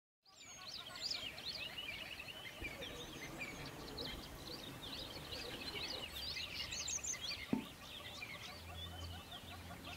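A chorus of small birds chirping and twittering, many short high calls overlapping, with one short knock about three-quarters of the way through.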